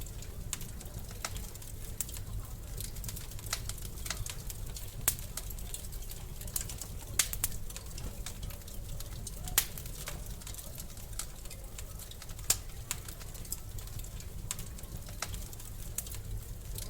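Wood fire crackling in a fireplace: irregular sharp pops and snaps over a low steady rumble, a few pops standing out louder than the rest.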